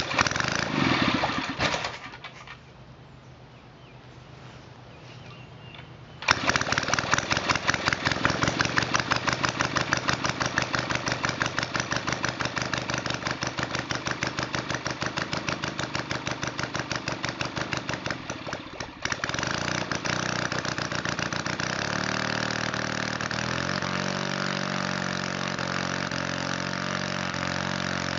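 Valach 170cc model aircraft engine being started without a starter. It fires briefly and dies after about two seconds, then catches about six seconds in and runs with a pulsing, uneven beat. From about nineteen seconds on it settles into a steadier run. It is set slobbering rich on both needles and on a 25:1 oil ratio.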